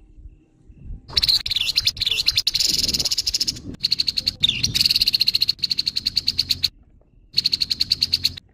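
Grey-headed babbler giving its harsh call: a rapid, rasping rattle in three bursts, the first about a second in, a long one in the middle, and a short one near the end.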